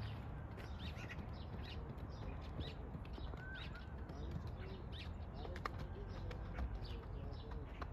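Small birds chirping and calling again and again, faint, over a steady low rumble.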